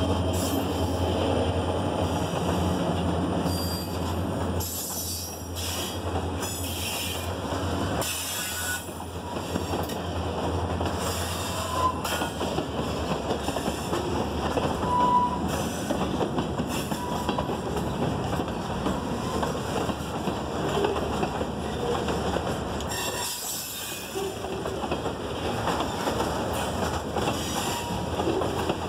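A freight train's cars rolling past close by, covered hoppers, a tank car and boxcars, with a steady rumble and clatter of wheels over the rail joints and a few brief wheel squeals. A low drone from the diesel locomotive fades over the first few seconds.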